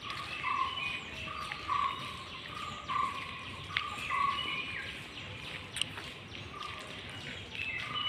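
A bird calling over and over in short, clear, level notes, about two a second at first and then more sparsely, over a faint hum of street background noise.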